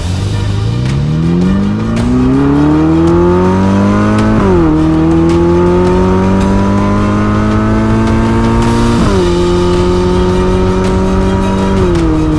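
Ferrari SF90 Stradale's twin-turbo V8 pulling: the revs climb for about four seconds, then the note drops sharply at a gear change, holds steady, and drops again at about nine seconds and once more near the end.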